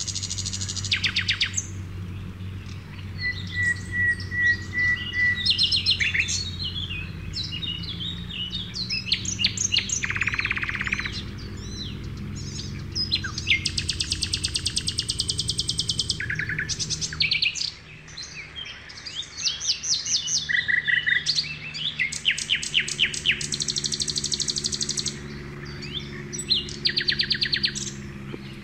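Several wild birds calling over one another: fast buzzy trills, a short steady whistled trill and quick chirps, over a steady low hum.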